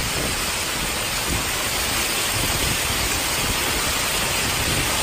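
Heavy rain driven by strong wind: a steady, dense hiss.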